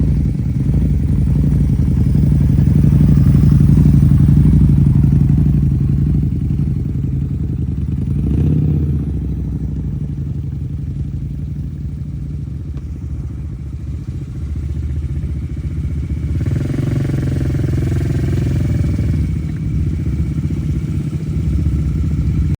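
Harley-Davidson Street 750 V-twin motorcycle engine running under way, louder for a few seconds near the start. About two-thirds of the way through, a second, higher engine note joins for a few seconds.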